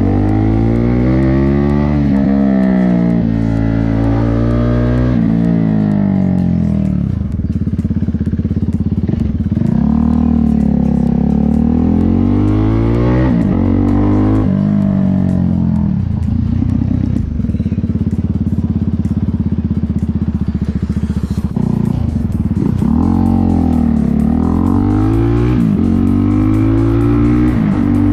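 KTM motorcycle engine under way, its pitch repeatedly climbing and then dropping, sometimes abruptly, as the rider accelerates, shifts and rolls off the throttle.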